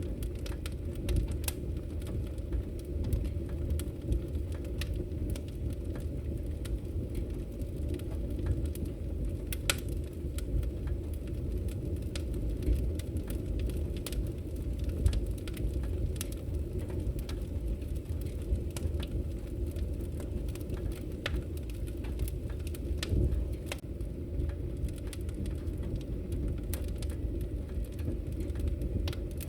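Wood fire crackling in a fireplace: a steady low rumble of burning logs with frequent small, sharp pops and snaps at irregular moments.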